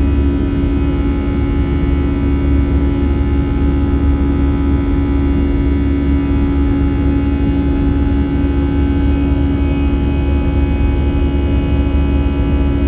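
Steady cabin noise inside an Airbus A320 with CFM56-5B engines: a constant drone with a strong low hum and several steady whining tones above it.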